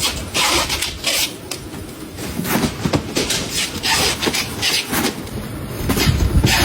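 Factory machinery working, an irregular run of loud clattering and hissing noises with a low rumble underneath.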